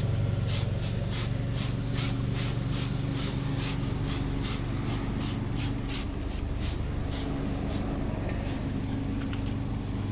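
Trigger spray bottle of tire shine being pumped onto a truck tire, about three quick hissing squirts a second that slow down after a few seconds and stop near the end, over a steady low hum.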